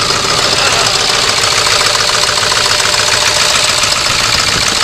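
Ford 7.3 Powerstroke V8 turbodiesel idling steadily with the hood open, its diesel clatter loud and close.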